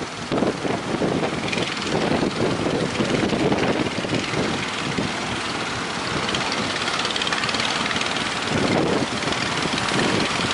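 A boat engine running steadily, with gusting wind buffeting the microphone.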